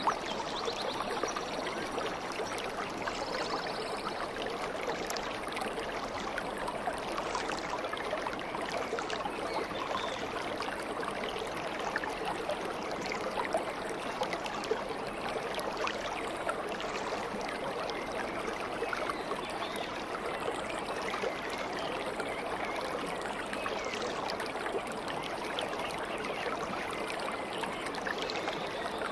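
Stream water running steadily, a constant babbling flow.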